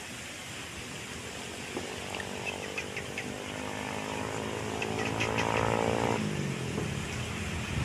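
A small-engined vehicle approaches, growing louder, and passes about six seconds in, its engine pitch dropping suddenly as it goes by. A few short bird chirps sound over a steady hiss.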